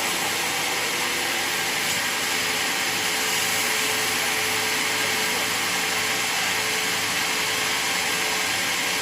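Portable sawmill running steadily: an even, unbroken machine noise with a faint steady hum, holding the same level throughout.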